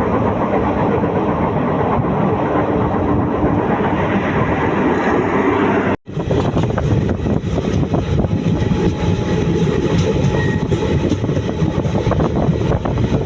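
Moving passenger train: a steady rumble and rattle of wheels on the track. It cuts out abruptly for a moment about halfway through, then resumes with busier, faster rattling.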